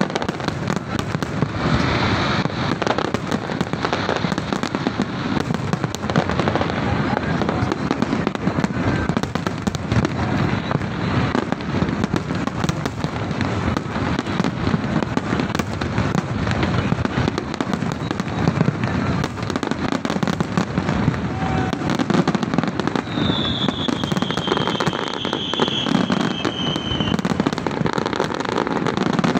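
Large aerial fireworks display: a continuous barrage of shell bursts, bangs and crackle with no pause. Near the end a high whistling tone sounds for a few seconds, falling slightly in pitch.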